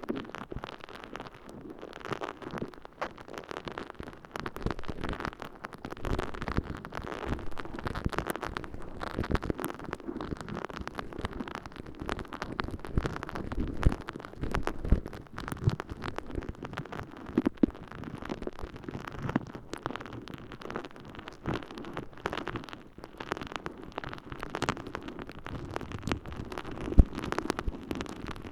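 Water-soaked, holey sponge squished and rubbed inside both ears of a binaural microphone, giving a dense, irregular wet crackle of small pops and clicks, with a few louder pops.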